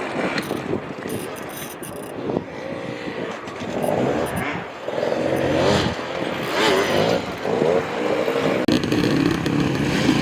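Enduro motorcycle engine revving hard, its pitch rising and falling with the throttle, louder from about halfway in.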